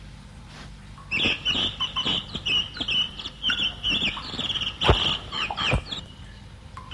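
Rapid bird-like clucking and chirping calls, starting about a second in and continuing as a fast string of short high calls, with a couple of sharp knocks among them.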